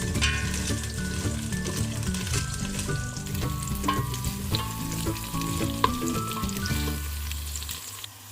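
Food sizzling and crackling in a hot frying pan while it is stirred, with many small pops.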